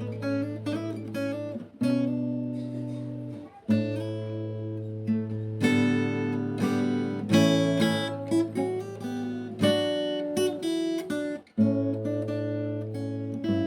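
Background music: an acoustic guitar playing strummed chords that change about every two seconds.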